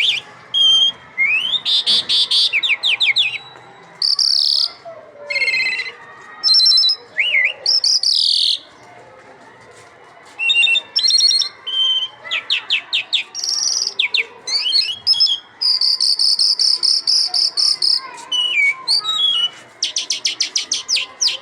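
A lark singing a long, varied song: fast trills, quick rising and falling slurred whistles and a long buzzy note, in phrases separated by short pauses.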